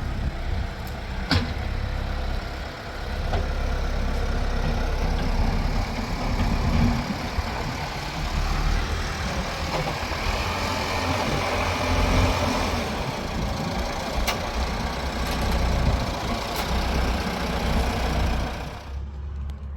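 A vehicle engine running steadily with a low rumble, a few sharp clicks over it.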